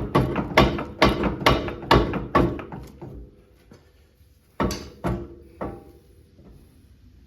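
Metal being struck with a hammer, each blow ringing: a steady run of blows about two a second, a short pause, then three more blows.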